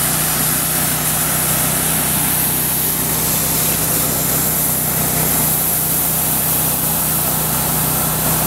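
An engine-driven machine running steadily at an even speed, with a low hum and a hiss over it.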